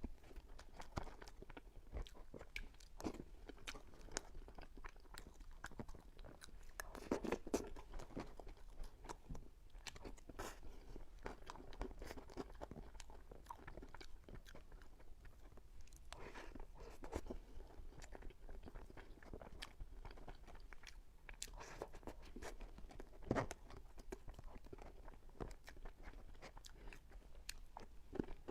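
Close-miked chewing and biting while eating cream-filled lava cake: a run of small wet clicks and smacks of the mouth, louder at a couple of moments.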